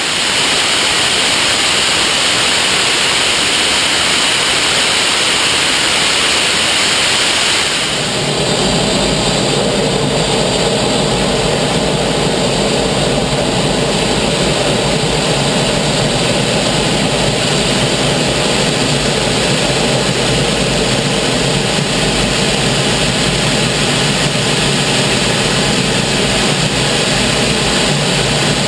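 Canadair CT-33 Silver Star jet trainer's Rolls-Royce Nene turbojet running loud and steady through an aerobatic display. About eight seconds in, the sound changes abruptly from a high, hissing jet noise to a deeper, steadier one.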